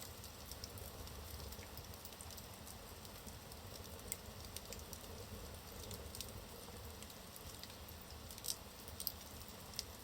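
Wood logs burning in a fireplace: a soft steady hiss with scattered crackles and small pops, a few sharper pops near the end.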